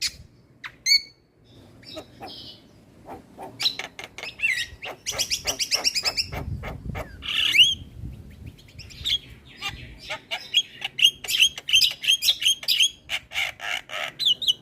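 Javan myna singing a busy, varied song of rapid ticking and rattling notes mixed with sharp whistles. One loud whistle comes about halfway through, and a fast rattling run near the end.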